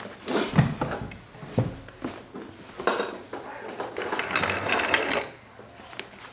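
Clothespins clattering into a can and rattling around in it: a string of clicks and knocks, with a longer rattle about four seconds in.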